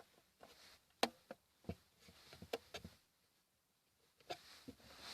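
A handful of short, light clicks and knocks from the plastic glovebox lid of a GAZ-3110 being handled and moved, spaced irregularly, with quiet between them.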